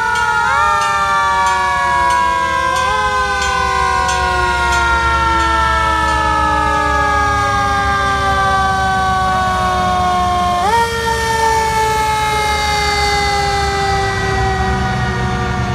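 Several fire truck sirens wailing together, their pitch slowly falling and jumping back up about half a second, three seconds and eleven seconds in, over the low rumble of the trucks' engines.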